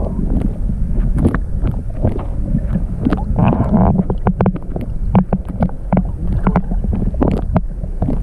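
Wind buffeting the microphone outdoors, a heavy unsteady rumble, with scattered short clicks and knocks throughout.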